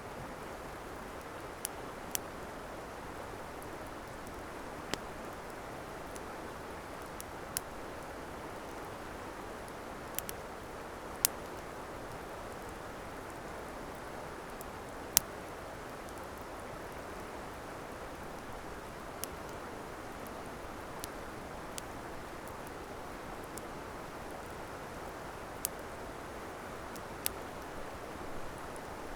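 Wood campfire crackling, with sharp, irregularly spaced pops and snaps over a steady rushing hiss.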